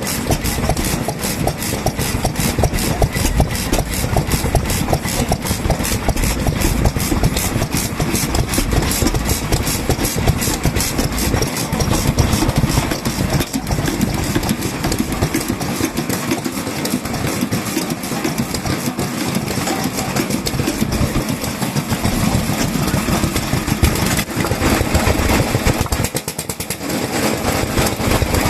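Vintage stationary kerosene/petrol engines (hatsudōki) running, a steady rapid chugging of exhaust beats.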